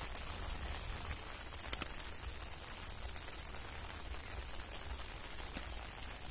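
Steady rain falling, with scattered small ticks of drops.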